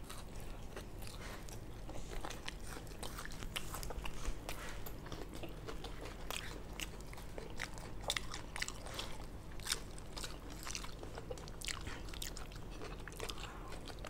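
People chewing and biting food, with many small crisp crunches and mouth clicks scattered irregularly throughout.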